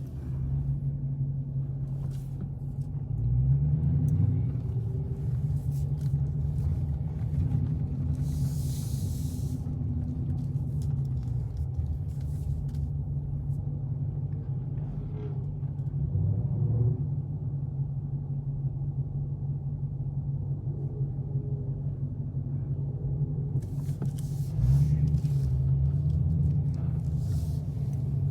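Dodge Challenger Scat Pack's V8 engine and exhaust drone steadily while cruising. The pitch climbs as it accelerates about three seconds in and again near the end.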